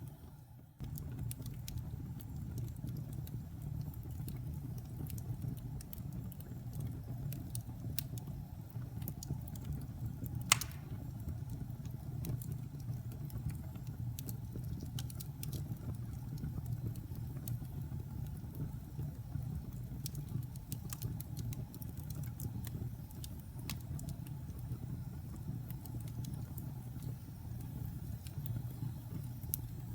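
Wood fire in a fireplace: a steady low rumble of burning with scattered crackles and one loud pop about ten seconds in. The sound drops out briefly at the very start.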